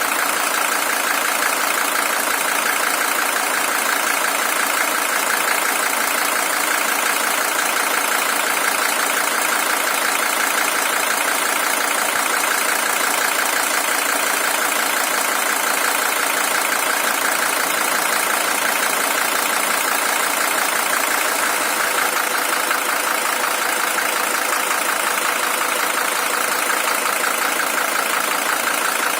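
Mercedes-Benz W123 300TD's OM617 five-cylinder diesel engine, the original engine with 620,000 km on it, idling steadily.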